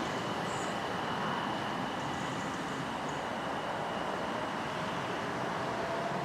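A train running past with a steady noise and faint whining tones. A whine that slowly rises in pitch comes in near the end.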